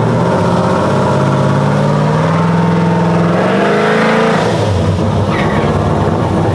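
Vehicle engine revving: its pitch climbs steadily over about two seconds, then falls back about four seconds in and runs on.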